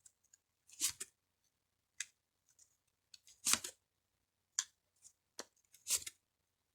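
Tarot cards being handled and laid down on a table: a string of short, sharp card snaps and swishes, irregularly spaced, with near quiet between.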